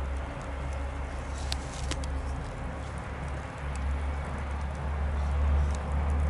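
Bonfire crackling, with a few sharp pops about a second and a half in, two seconds in and near the end, over a low rumble from a train that grows steadily louder as it approaches.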